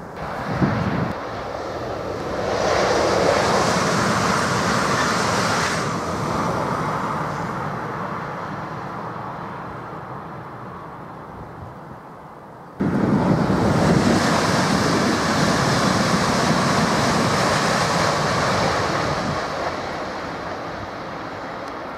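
Rushing noise of wind on the microphone mixed with a Southeastern Class 395 Javelin high-speed train coming out of the tunnel. The noise jumps up suddenly about halfway through, then slowly fades.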